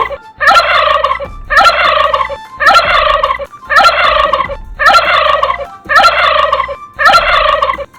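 Turkey gobbling, a run of about eight gobbles at roughly one a second.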